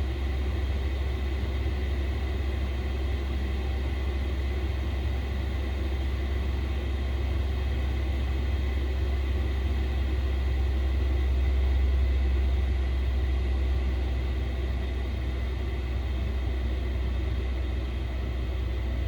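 Diesel air heater running steadily in Alpine mode, with the fuel pump pulse rate slowed: an even low rumble with faint steady whines above it, swelling slightly about halfway through.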